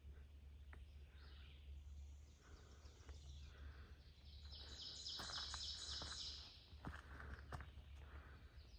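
Quiet woodland ambience: a songbird gives a rapid, high repeated trill about halfway through, with a few faint clicks and a low steady rumble underneath.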